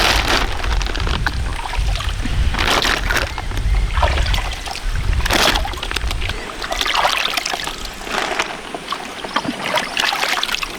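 Irregular splashing and sloshing in shallow muddy water, a burst every second or so.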